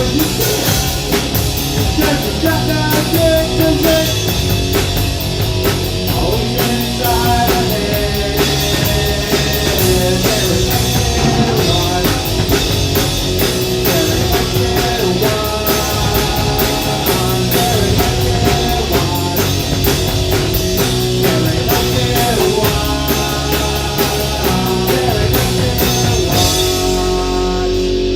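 Live rock band playing loud on drum kit and electric guitar, with a dense run of drum and cymbal hits; the drums stop near the end as the song finishes, leaving ringing guitar.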